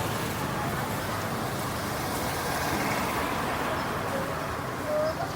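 Steady street traffic noise from passing road vehicles.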